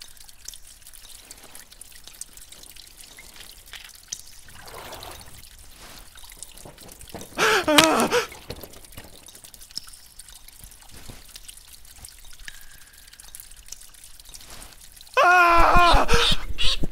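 Water trickling and dripping steadily. A short wavering call sounds about halfway through, and a louder run of calls starts near the end.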